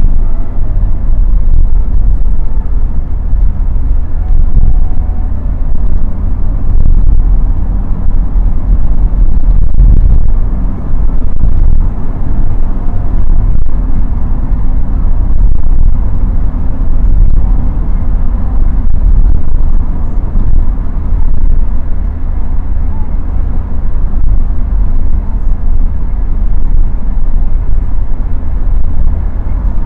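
Inside the cabin of a BMW 316i E30 Touring on the move: a steady low rumble of its four-cylinder engine and the tyres on the road, with small rises and dips in loudness.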